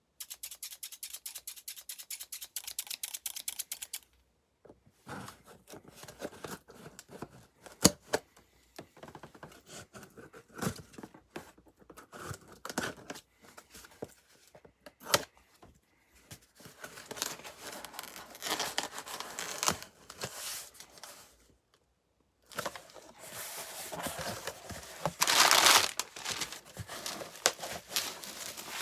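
A mailed package being opened by hand: tape tearing and packaging crinkling, with scattered knocks and clicks. A rapid, even run of ticks fills the first four seconds, and the loudest tear comes a few seconds before the end.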